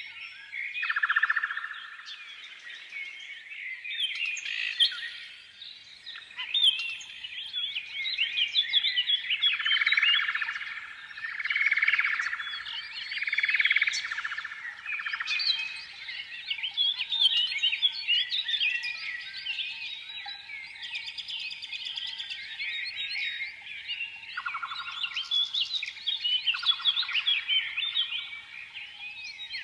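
Many small birds chirping and twittering together in a dense, continuous chorus of quick high notes, with buzzy trills now and then.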